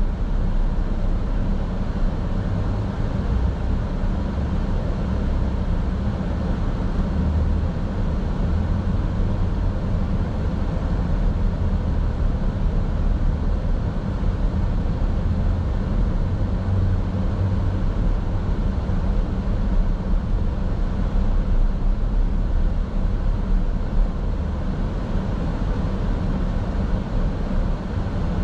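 Steady low rumble of a car driving at an even pace: engine and road noise heard from inside the car through a dash camera.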